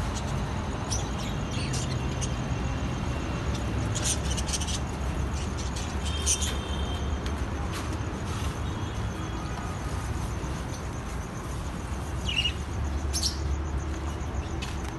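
Steady low rumble of road traffic, with a few short, high bird chirps about four and six seconds in and twice near the end.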